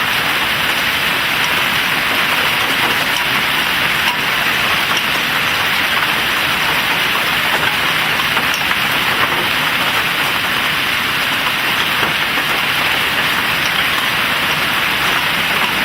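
Hail pelting down hard: a loud, steady hiss of countless small impacts, with faint individual clicks of hailstones striking hard surfaces.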